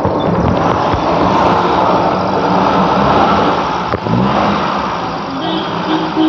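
Maruti Suzuki Alto 800's three-cylinder petrol engine running and being revved through its freshly repaired silencer. The revs swell, then settle back after about four seconds. The exhaust sounds normal, with none of the earlier bad noise.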